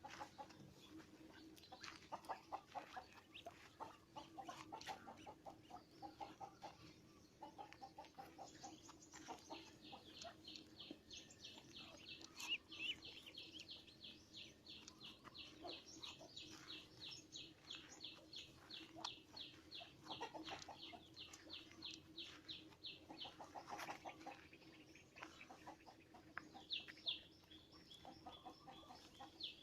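Birds calling: low clucking notes in the first few seconds, then a long run of fast, high chirps at about four a second for roughly thirteen seconds, with more high chirps near the end. A faint steady hum lies underneath.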